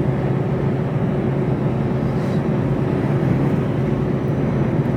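Mercedes Actros truck heard from inside the cab while driving: a steady engine drone over road noise, holding an even pitch.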